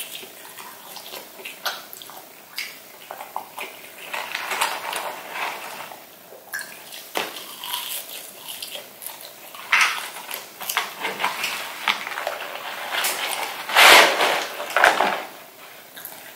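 Close-miked mukbang eating of McDonald's chicken nuggets and French fries: crunching bites, chewing and wet mouth sounds in an irregular run of clicks and crackles. About 14 s in comes the loudest sound, a longer rustle that fits the cardboard fry carton being tipped over and the fries poured out onto the table.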